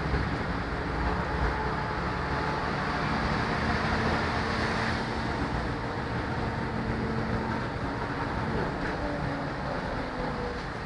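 Scania K94UB bus with its Scania D9C diesel engine running: a steady drone of engine and road noise, with faint whining tones that hold or slowly glide.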